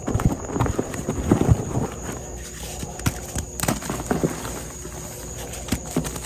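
Reformed gym chalk soaked in baby oil being crushed: uneven soft crunches and thuds, heavier in the first two seconds, then lighter, scattered crackles.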